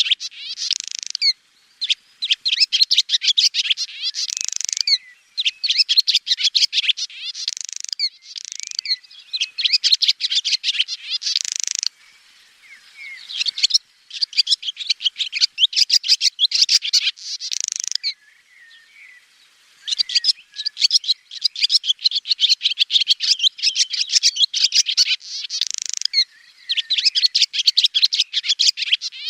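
Swallow twittering: rapid runs of high, quick chirps in phrases of one to two seconds, broken by short pauses and one longer lull about two-thirds of the way through.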